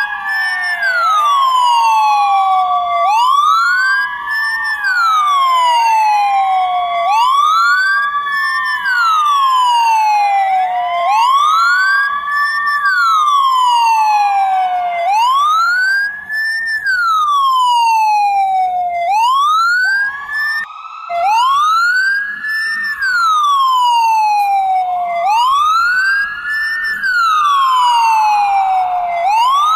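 Ambulance siren wailing: each cycle rises quickly and falls more slowly, repeating about every four seconds, with a second offset wail overlapping it.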